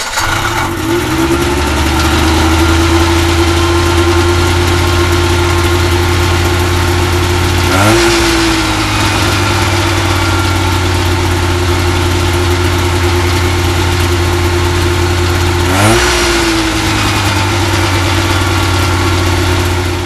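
Cuyuna 440 two-stroke twin engine firing on its electric starter, catching at once and settling into a steady idle. It is revved briefly twice, about eight seconds apart, and drops back to idle each time.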